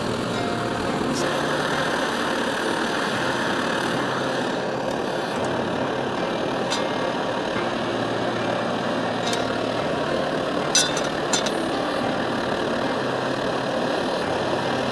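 MSR Dragonfly liquid-fuel camp stove burning with a steady roar, with a few sharp clicks about two-thirds of the way through.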